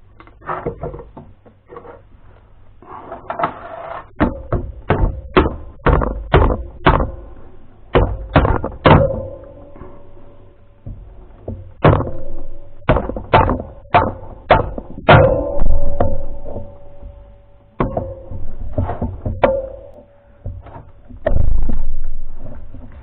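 Irregular series of knocks on metal engine parts, some leaving a short metallic ring, as a motorcycle engine's cylinders are fitted.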